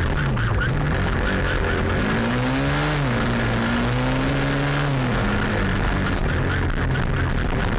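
Motorcycle engine running hard through a chase, its revs climbing about two seconds in and falling off again around five seconds, over steady road and wind noise.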